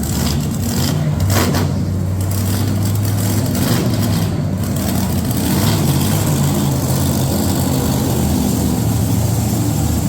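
Monster truck engines running loudly, with a few short revs in the first couple of seconds and then a steady low hum.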